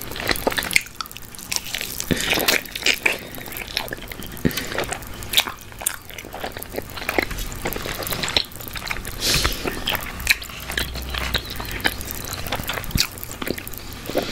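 Close-miked chewing of barbecue chicken drumstick meat: wet mouth smacks and irregular sharp clicks, with no steady rhythm.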